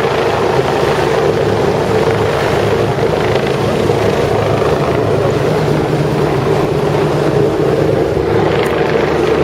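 Rescue helicopter hovering overhead, its rotor and engine running loudly and steadily.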